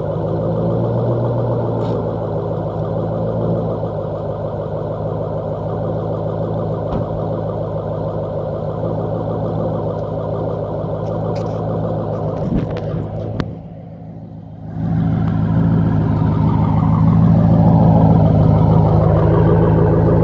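2008 Ford Mustang GT's 4.6-litre V8 running at a steady speed through an X-pipe with high-flow catalytic converters and no mufflers. About two-thirds of the way through, the sound drops off sharply for about a second, then comes back louder and stays steady.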